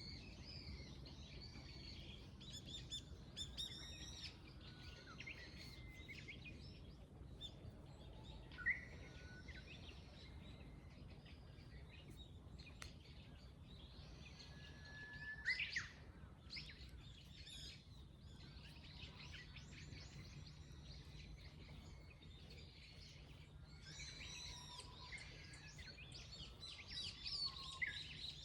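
Several small birds chirping and trilling, with a few sharper, louder calls about nine seconds in, around fifteen seconds in and near the end, over a steady low background rumble.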